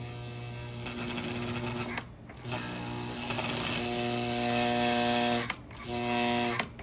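Marx No. 898 toy steam locomotive's electric motor running rough on the track with a harsh, steady buzzing whir. It cuts out briefly about two seconds in and twice more near the end.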